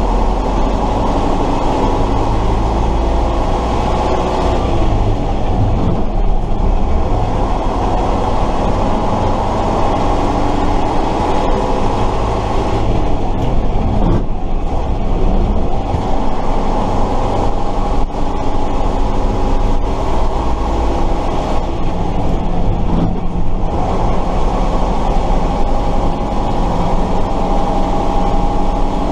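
Tatra 138 fire truck's air-cooled V8 diesel heard from the cab while driving, a loud, steady run whose pitch drops and climbs again a few times as engine speed changes.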